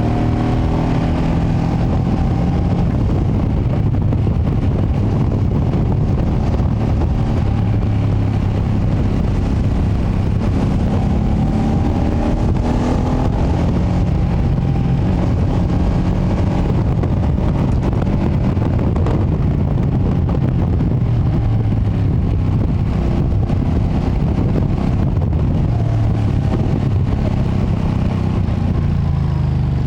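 Ducati Panigale V2S's V-twin on its stock exhaust, heard while riding, its pitch rising and falling as the bike accelerates and changes gear. A heavy steady rumble of wind and road noise lies over it.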